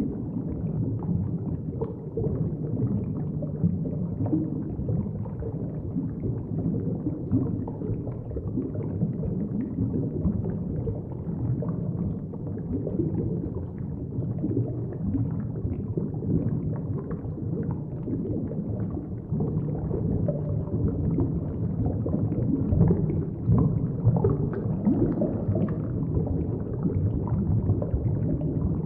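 Muffled underwater ambience picked up by a submerged camera: a steady low rumble and gurgle of moving water, with faint scattered crackles.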